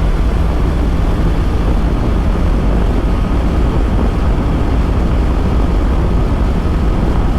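Steady wind rush and road noise heard inside a motorcycle helmet at speed, with the Honda CB650R's inline-four engine droning steadily underneath.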